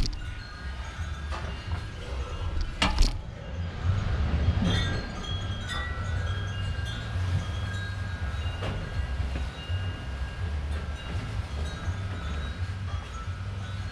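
Gusty wind buffeting the microphone, with faint high ringing tones coming and going. A sharp knock comes about three seconds in.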